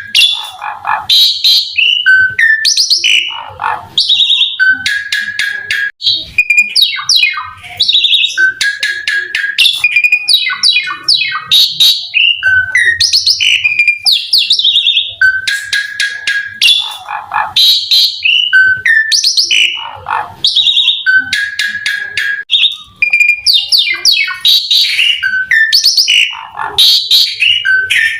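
Asian pied starling (jalak suren) singing loud and without pause: a varied song of clear whistles, rapid rattling note series and buzzy trills, with the same run of phrases coming round about every seven seconds.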